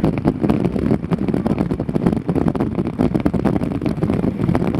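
Steady, loud rumbling noise of a bicycle ride in the rain, with many small ticks running through it: wind and rain on the microphone while riding.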